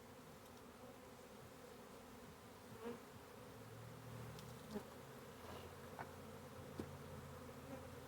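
Honey bee swarm buzzing, a faint steady hum, with a few light clicks about three, five, six and seven seconds in.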